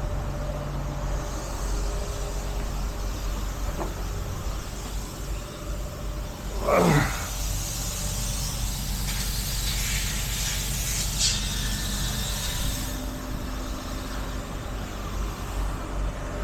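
Tow truck engine running steadily while the wrecker's tow gear is worked. About seven seconds in there is a short sound falling steeply in pitch, then a hiss for several seconds.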